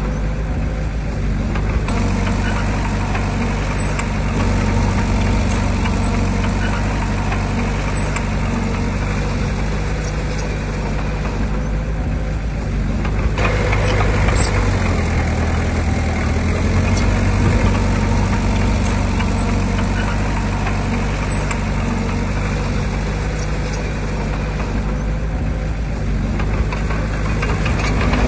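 Diesel engine of heavy earthmoving machinery running steadily, with a change in its sound about halfway through.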